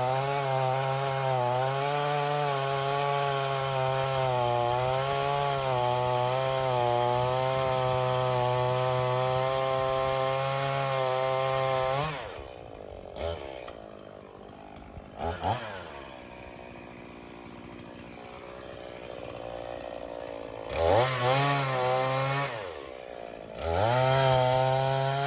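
Two-stroke chainsaw running at full throttle, cutting through a poplar log. About halfway through, the engine drops suddenly to a low idle, then is revved up twice in short bursts near the end.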